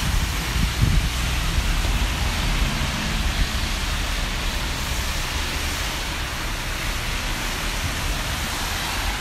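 Steady hiss of rain and traffic on wet city streets.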